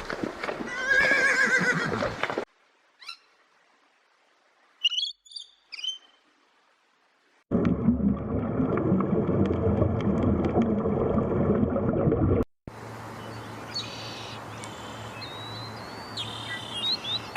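A horse whinnying for the first couple of seconds, then a few short bird chirps, then about five seconds of loud, coarse noise, then bird calls over a steady background.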